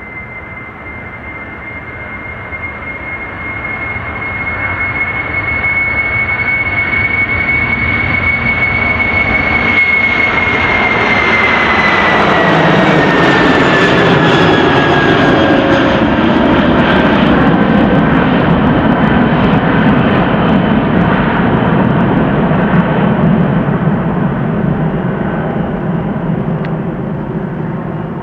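Jet airliner taking off at full power and passing by: the engine noise builds up, is loudest in the middle, then slowly fades, while a high engine whine slides down in pitch about halfway through as the aircraft goes past.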